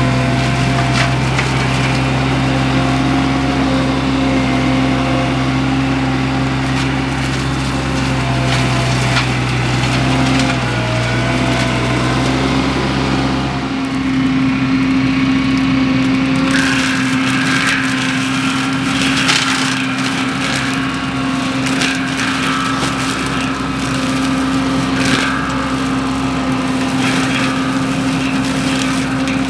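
Mini skid steer with a Baumalight MS530M mulcher head running steadily, its engine note shifting about halfway through. In the second half the spinning drum chews into wood, with repeated cracks and snaps over the engine.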